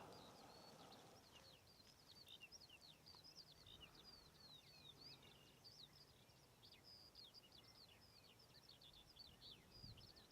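Faint bird song: one or more songbirds singing a continuous stream of quick, varied high chirps.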